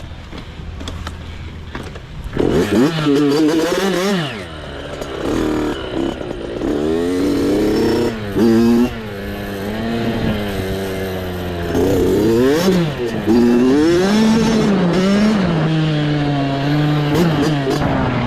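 Small dirt bike engine running low and even for about two seconds, then revving up and down over and over as the throttle is opened and closed.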